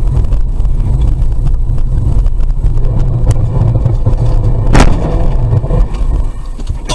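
Loud, steady low rumble of a car's engine and road noise, with a sharp knock about five seconds in.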